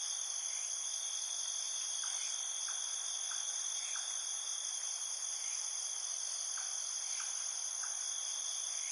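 Steady background chorus of trilling insects: several high-pitched tones held without a break, with a few faint soft ticks now and then.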